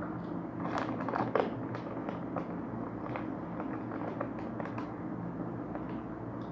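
Crunching of a crispy layered corn snack being chewed: a run of short, sharp, irregular crunches, densest in the first couple of seconds, over a steady low hum.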